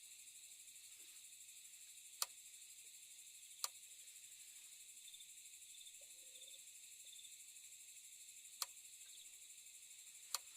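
Faint, steady chirring of night insects such as crickets, with four sharp clicks standing out above it.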